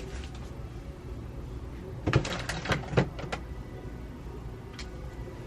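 A few sharp clicks and knocks, about two to three seconds in, from someone handling a single-serve pod coffee machine, over a steady low hum.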